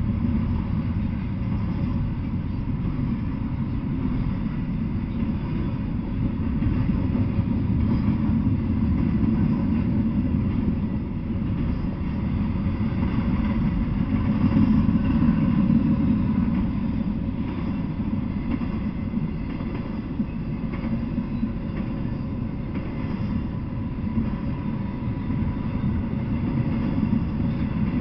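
Double-stack intermodal freight train rolling past at steady speed: a continuous rumble of wheels on rail and container well cars, swelling slightly and easing with no breaks.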